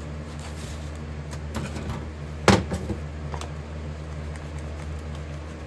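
Steady low electric hum of a running metal-melting furnace, with a few light knocks and one sharp knock about two and a half seconds in.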